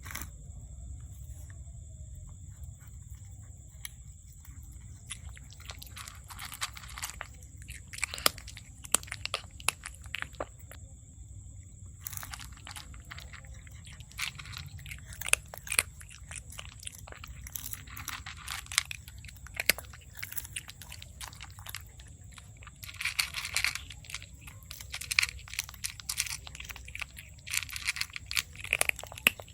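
A cat chewing and crunching food, with irregular bites and crunches that come in clusters, busiest near the end.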